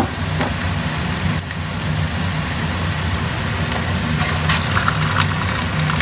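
Boiled potatoes and oil sizzling steadily on a steel stovetop griddle, over a steady low hum. A few light clicks about two-thirds of the way in as a skewered sausage coil is set down on the griddle with a spatula.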